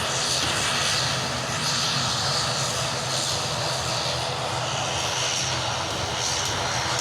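Airplane engines running as an aircraft flies near, a steady loud noise without breaks.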